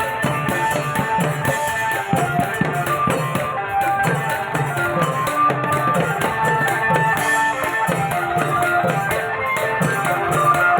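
Thai klong yao long-drum band playing: the drums beat a steady rhythm under a melody line.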